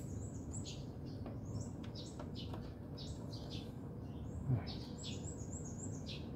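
Small birds chirping over and over, short high calls several times a second, over a steady low background noise; a soft thump about four and a half seconds in.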